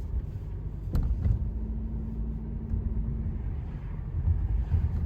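Low, uneven outdoor rumble, with a single click about a second in.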